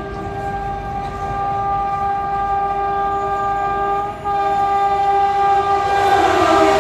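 Indian express train's horn sounding one long, steady blast as the train approaches. It breaks off briefly about four seconds in, then sounds again and grows louder.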